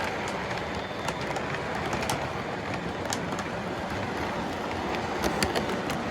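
Model train running on a three-rail O gauge layout: a steady rumble of motor and wheels, with irregular clicks as the wheels pass over rail joints.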